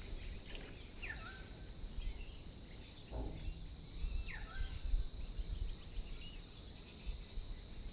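Outdoor ambience with a bird giving two short calls, each a quick falling whistle that levels off, a couple of seconds apart. Low rumbling noise sits underneath, strongest in the middle.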